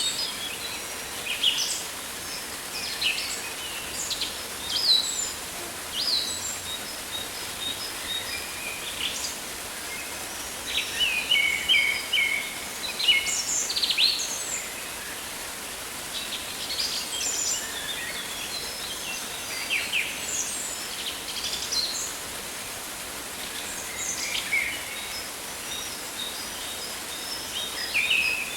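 Rainforest ambience: many birds chirping and calling, short overlapping notes coming in clusters, over a steady hiss.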